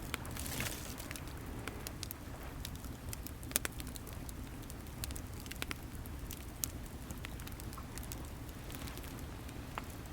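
Wood fire crackling with irregular sharp pops, two louder snaps standing out, over a steady low rumble of sea waves.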